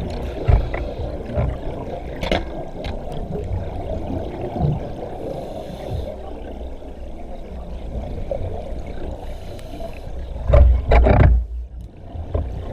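Underwater rumble and hiss heard through a camera housing as a scuba diver swims, with the gurgle of regulator exhaust bubbles. A longer, louder surge of bubbles comes about ten and a half seconds in.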